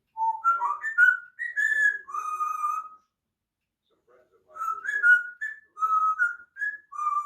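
African grey parrot whistling a tune in two phrases of clear notes that step up and down, the second starting after a pause of about a second and a half.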